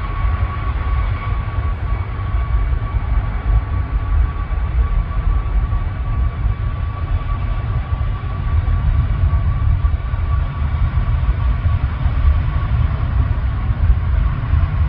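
Jet airliner engines running: a deep, steady rumble with a steady high whine held on one pitch.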